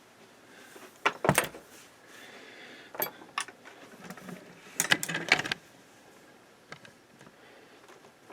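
Hard clicks and clattering of tools and small objects being handled on a workbench, in short clusters about a second, three seconds and five seconds in.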